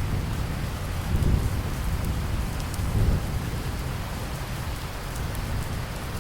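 Steady rain with a deep rumble of thunder that sets in at the start, swells twice (about one second and three seconds in), then slowly fades back under the rain.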